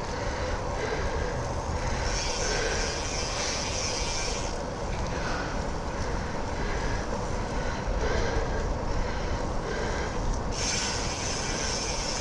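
Steady wind rumble on the microphone, mixed with the road noise of a bicycle's tyres rolling on a wet trail. A higher hiss swells for a couple of seconds, twice.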